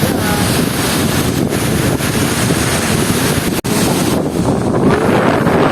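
Loud, steady rushing of water with wind buffeting the microphone, with a momentary dropout about three and a half seconds in.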